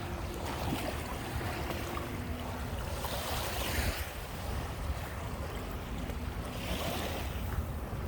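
Small Lake Michigan waves washing onto the beach, two swells of surf hiss about three and seven seconds in, over a steady low rumble of wind on the microphone.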